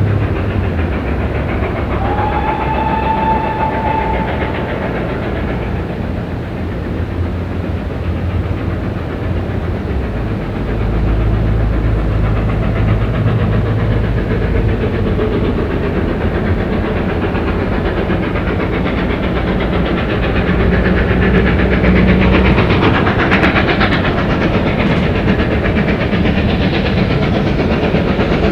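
Steam train running on the line, with one short whistle blast about two seconds in. The running noise grows louder toward the end.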